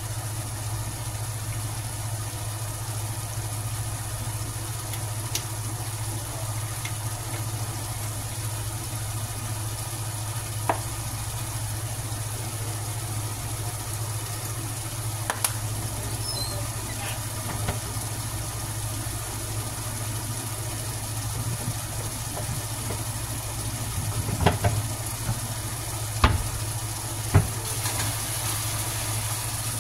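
Food sizzling in a pot on the stove over a steady low hum, with a few sharp knocks, most of them near the end, from a utensil against the cookware.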